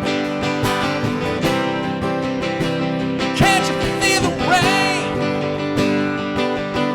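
Live acoustic country-style music: guitar playing an instrumental passage of a slow song, with a wavering, bending melody line through the middle.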